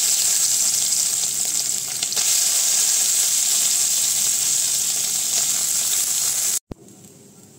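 Boiled, squeezed-out soya chunks sizzling loudly in hot oil in a kadhai as they are added: a steady frying hiss that cuts off suddenly near the end.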